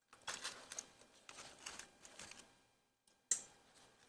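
Rapid small clicks and rattles of hand tools working on metal engine parts, in two stretches of about a second each, then a single sharp knock near the end.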